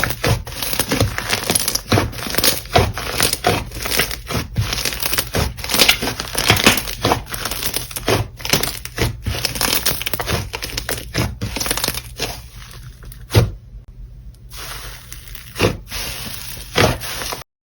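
Slime being pressed and squished by hand, giving a dense run of crackles and pops that thins out to a few separate pops about twelve seconds in, then cuts off just before the end.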